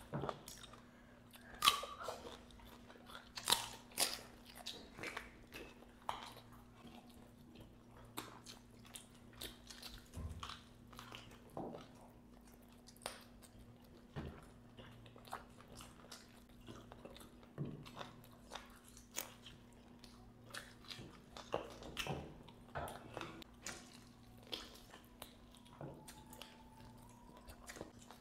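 Close-miked chewing and biting of masala-fried chicken leg pieces by two people eating with their hands, with irregular sharp crunchy bites. A faint steady low hum runs underneath.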